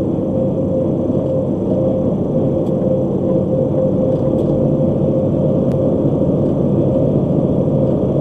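Steady road and engine rumble of a vehicle travelling at highway speed, with a steady hum running through it.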